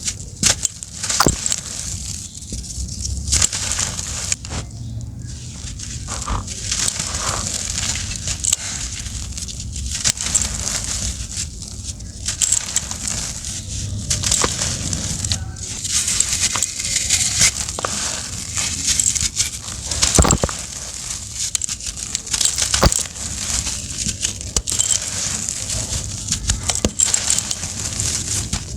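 Dry, brittle chunks crumbling and being crushed: a continuous, irregular crackling made of many small sharp cracks.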